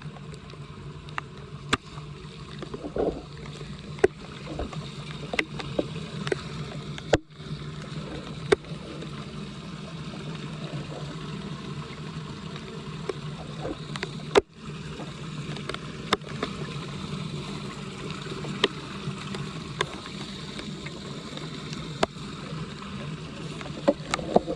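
Floodwater rushing and gurgling down a street storm drain, with short knocks and clicks scattered through it. It breaks off abruptly twice, about seven and fourteen seconds in.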